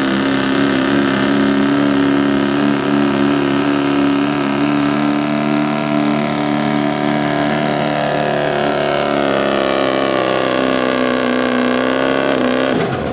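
Diesel 4x4 pickup truck engine running hard at high revs under heavy load, pulling a weight sled. Its pitch sags lower over the last few seconds as the load builds, and the sound cuts off suddenly just before the end.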